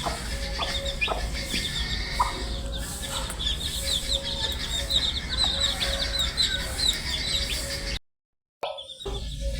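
A brood of baby chicks peeping nonstop: many short, high chirps overlapping, over a low steady hum. The sound cuts out completely for about half a second near the end, then resumes.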